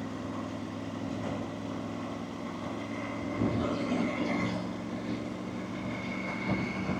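Motorcycle engine running at a steady pace, with a faint high whine coming in about three seconds in.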